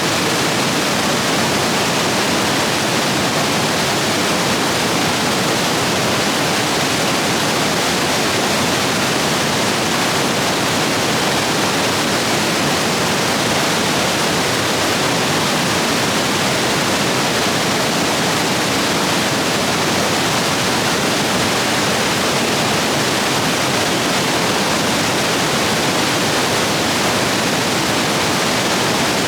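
Rapids of a rain-swollen stream rushing over rocks: a steady, loud roar of water.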